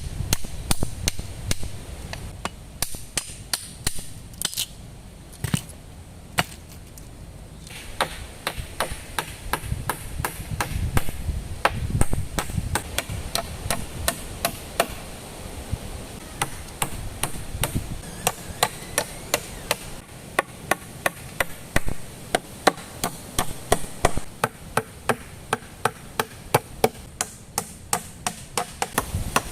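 Repeated sharp chopping strikes of a blade or hand tool into wood, a few blows a second, with a short lull a few seconds in before the strikes pick up again.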